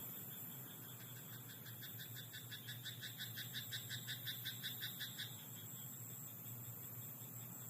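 A frog croaking in a rice paddy: a fast, even run of croaks, about five or six a second, starting about a second in, swelling louder in the middle and stopping a little after five seconds, over a steady high background hiss.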